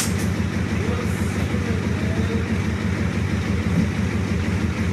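Ford 6.9-litre diesel V8 idling with a steady, even rhythm, freshly cold-started on a jump from a battery charger.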